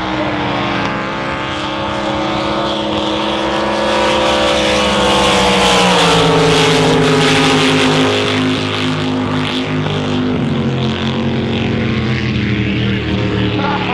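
Drag boat engines running loud and steady, swelling in the middle and then dropping in pitch about six seconds in and again around ten seconds.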